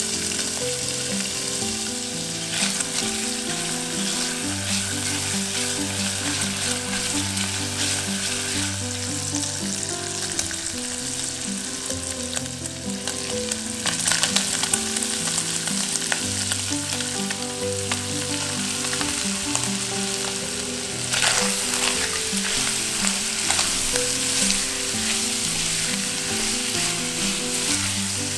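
Food frying in hot oil in a pan, a steady sizzle that flares up louder about halfway through and again about three-quarters of the way in.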